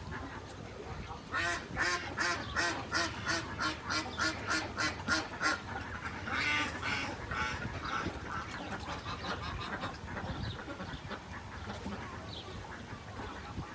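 Duck quacking in a long, regular run of about three quacks a second. The run starts about a second in and goes on for roughly four seconds, followed by a looser cluster of calls and then fainter quacks.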